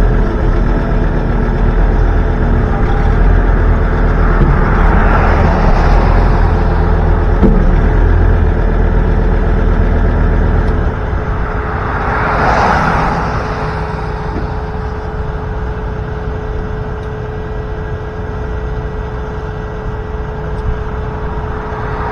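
Truck driving on the road: steady engine and road rumble with a constant whine, heavier in the first half and lighter from about halfway. Three swells of rushing noise come and go, about 5 s in, about 12 s in and at the very end.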